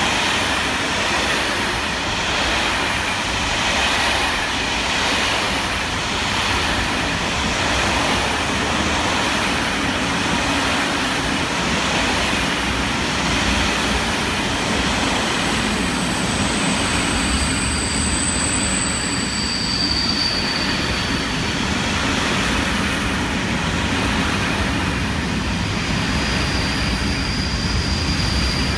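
Long freight train of tarpaulin-covered wagons rolling past: a steady, loud rumble and rattle of wheels on the rails, with thin high wheel squeals a few times in the second half.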